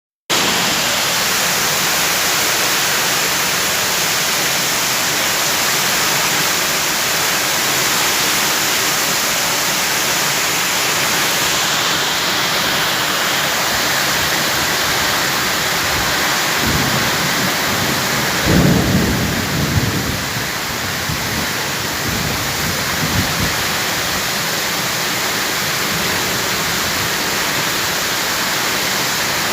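Heavy rain with strong wind: a dense, steady hiss of rain, with a spell of low rumbling swells a little past halfway, the loudest of them about two-thirds of the way in.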